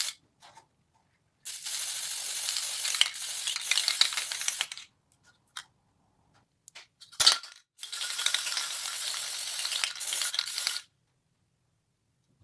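Two bursts of spray hissing, each about three seconds long, with a sharp click between them.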